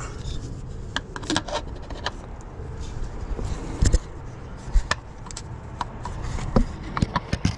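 Scattered light clicks, knocks and scrapes as a new oil filter is offered up and threaded onto its mount by hand.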